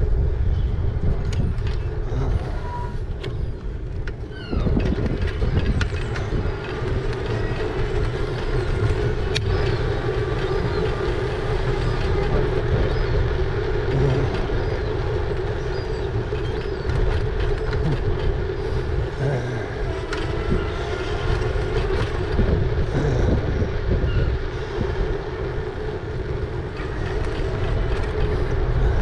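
E-bike on the move: heavy low wind rumble on the microphone and road noise, with a steady hum underneath and occasional light clicks and rattles.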